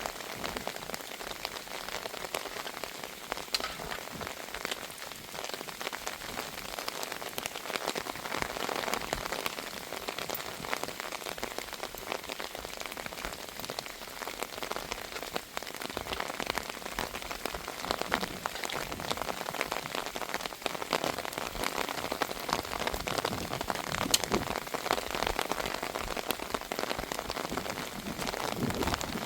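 Heavy rain falling steadily, a dense hiss of countless small drop impacts on a surface.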